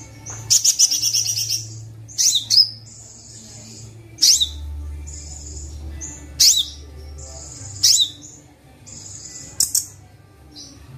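Kolibri Wulung sunbird song: sharp high chirping phrases about every two seconds, with thin buzzy high notes in between, over a faint low hum.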